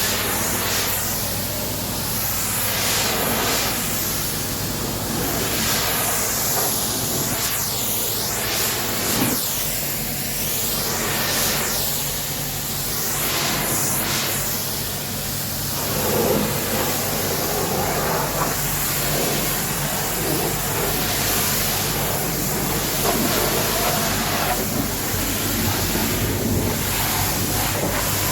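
High-pressure washer jet spraying a steady hiss over the steady hum of its pump, the hiss swelling and fading as the spray sweeps across the surface.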